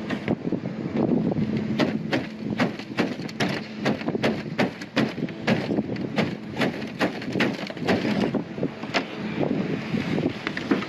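Irregular clicks, knocks and crackles, several a second, from work on a tin roof where the metal has rusted through.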